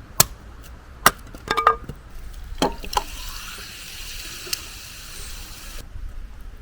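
A few sharp clinks and knocks, some of them ringing like ice or glass, then a steady hiss of liquid being poured for nearly three seconds that cuts off suddenly.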